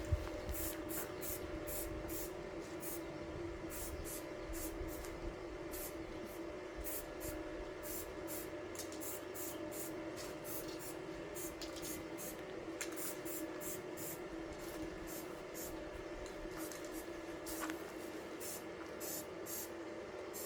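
Electric arc welding: the arc crackling irregularly and continuously, over a steady hum.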